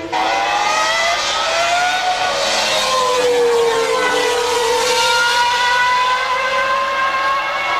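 A Formula One car's engine running at high revs. Its pitch climbs, drops over a couple of seconds, then rises steadily again, over a hiss.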